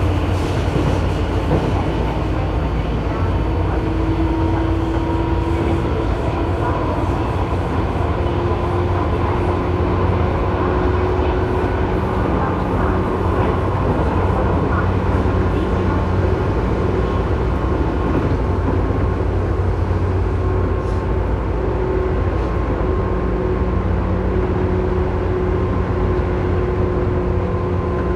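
Tobu 9000 series electric train running at speed, heard from inside car MoHa 9204 directly above its armature chopper: continuous rail and running-gear rumble with steady whining tones that come and go and shift slightly in pitch. This car's chopper is known for an abnormal noise.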